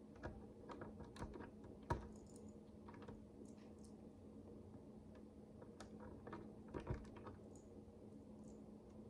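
Micro bricks, miniature plastic building bricks, faintly clicking as they are handled and pressed together. The clicks come in two loose clusters, with the sharpest one about two seconds in.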